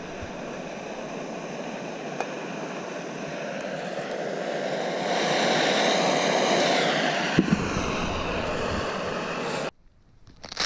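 A steady rushing noise that slowly grows louder, then cuts off abruptly near the end, followed by a sharp knock.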